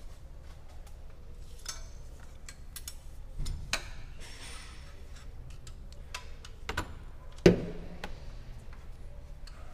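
Scattered metallic clicks and clinks of hand tools being handled during cylinder-head work on the engine, with a sharp knock about seven and a half seconds in.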